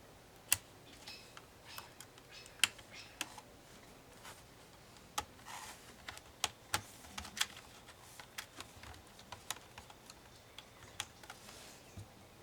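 Irregular small clicks and taps of an HP ProBook 450 G5 laptop's plastic case and parts being handled and pried apart, with a brief scrape about five and a half seconds in.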